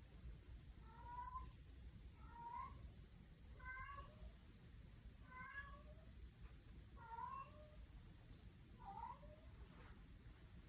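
Domestic cat meowing over and over: six short meows that rise in pitch, about one every second and a half, the cat complaining to its owner.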